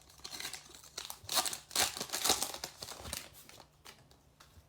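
Foil wrapper of a trading-card pack being torn open and crinkled by hand, a run of crackling rustles that dies away about three and a half seconds in.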